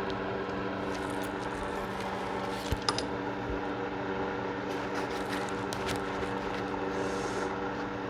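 A steady mechanical hum, with two light clicks a little under three seconds in.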